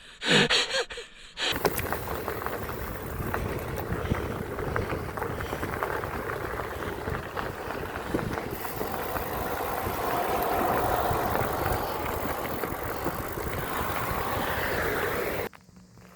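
A couple of heavy gasping breaths from an out-of-breath cyclist, then a steady rush of wind and tyre noise from riding a bicycle on the road, which cuts off abruptly near the end.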